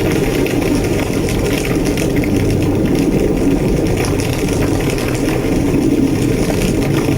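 Large fire roaring steadily with a deep rumble, with light crackling throughout.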